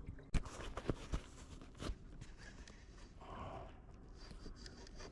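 A few sharp knocks and clicks, spaced irregularly through the first two seconds, then a brief rustle, from gear being handled against a plastic kayak.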